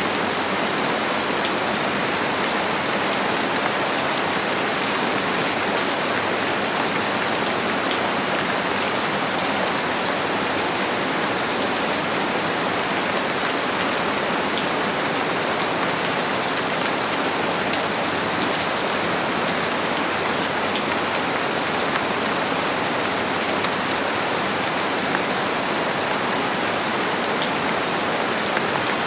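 Steady rain falling, a constant even hiss with scattered individual drops ticking on a surface.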